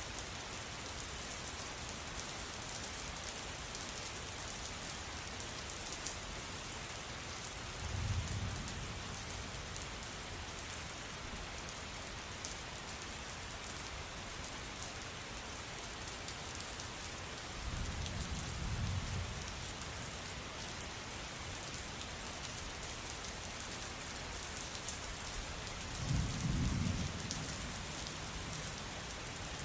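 Steady rain falling, with fine drip ticks throughout. Three short, low rumbles of thunder break in: about a quarter of the way in, just past the middle, and near the end, the last the loudest.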